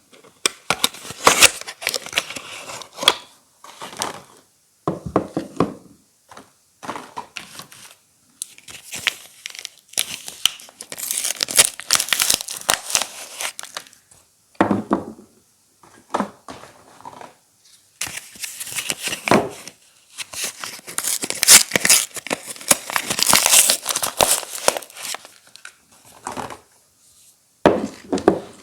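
Soap bar wrappers being torn open and crinkled by hand, in irregular bursts of crackling and tearing with short pauses between, loudest about a third of the way in and again past two-thirds.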